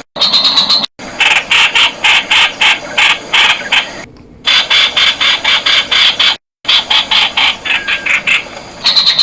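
Streak-eared bulbul calling: a fast series of short, harsh notes, about five a second, broken by a few abrupt silent cuts.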